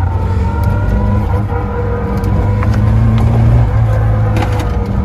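Citroën AX GT rally car's four-cylinder engine running steadily on the road, heard from inside the cabin with a heavy low drone of road and tyre noise. The engine note climbs a little, then drops back about four seconds in.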